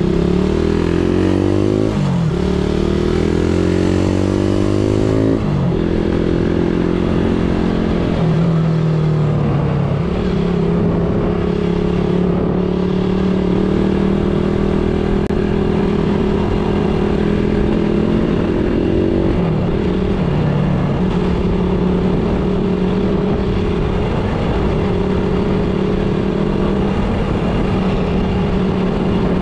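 Suzuki Raider 150 motorcycle engine pulling away and accelerating through the gears, its pitch climbing and dropping back at each of three upshifts in the first eight seconds, then running at a steady cruising speed with road noise, heard from on board the bike.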